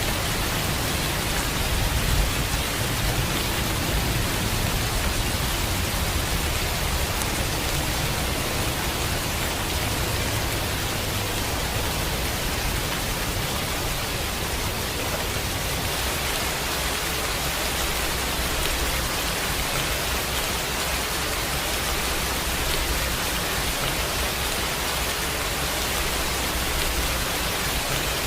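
Steady, even rain. A low rumble underneath eases off about halfway through.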